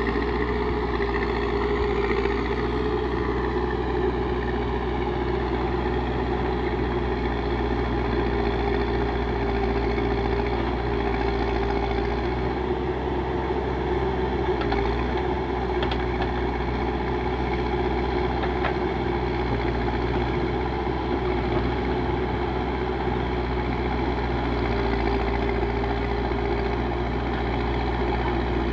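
Backhoe loader's diesel engine running steadily, with a slight rise and fall in pitch near the start and a few faint knocks around the middle.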